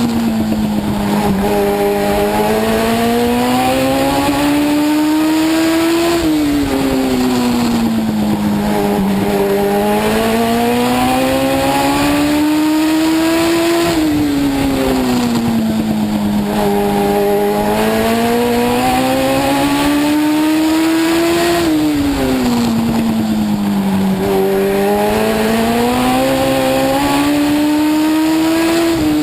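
Legend race car's Yamaha motorcycle engine running hard on track, heard from inside the car. Its pitch climbs steadily on each straight and drops sharply as the driver lifts for each turn, about every eight seconds.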